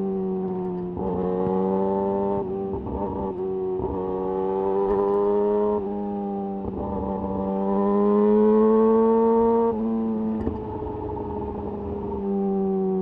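Yamaha YZF R6's inline-four engine through a de-catted Akrapovic slip-on exhaust, ridden at moderate revs with the throttle rolled on and off. The pitch climbs gently, then drops suddenly about ten seconds in as the throttle is closed or a gear is changed.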